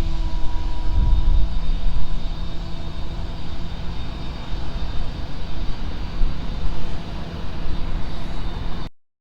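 Steady low rumble of outdoor street noise with faint steady tones above it, easing a little and cutting off suddenly near the end.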